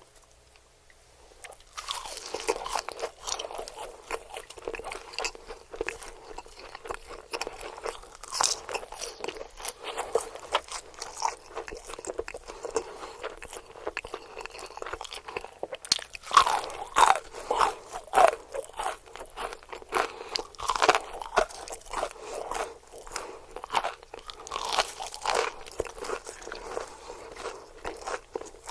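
A person biting and chewing crunchy food close to the microphone, in the style of eating-sound ASMR. It begins about two seconds in as dense, crackling crunches, with a louder cluster of bites about halfway through.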